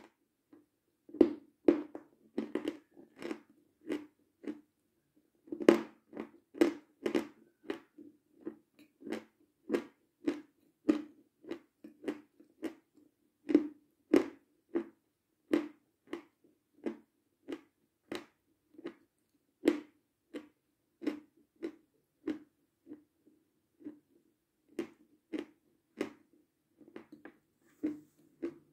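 Close-up chewing of dry, crunchy food with the mouth shut: a crisp crunch with each bite, about one to two a second, with a couple of short pauses early on.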